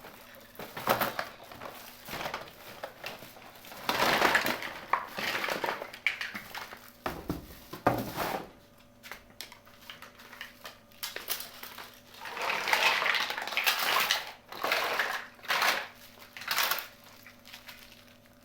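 Crinkling plastic packaging and small plastic toy pieces clicking and clattering as a miniature toy kitchen set is unboxed by hand, in irregular bursts with sharp clicks between them.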